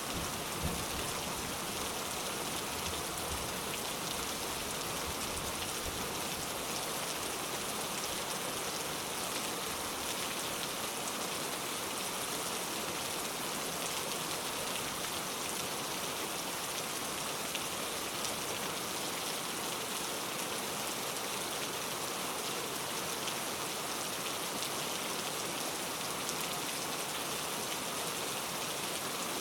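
Steady rain falling evenly, with a low rumble dying away in the first few seconds.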